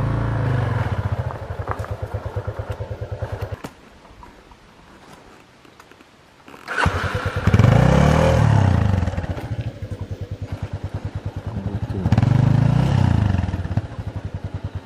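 Off-road motorcycle engine idling with an even beat, then dropping away for about three seconds. Near the middle it comes back with a sudden burst and revs up and back down twice before settling to idle again.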